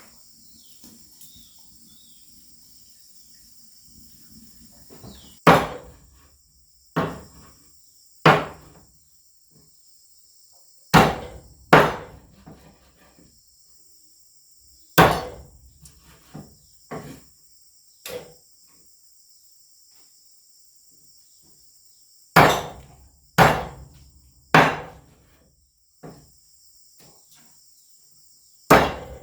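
A dozen or so heavy chopping blows, irregularly spaced and a second or more apart, starting about five seconds in, over a steady high drone of insects.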